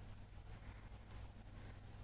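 Faint handling of knitting needles and yarn as stitches are worked, with one light tick about a second in, over a low steady hum.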